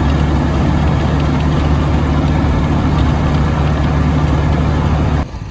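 A vehicle engine running steadily, a low hum with a noisy rush above it. It cuts in suddenly and stops suddenly shortly before the end.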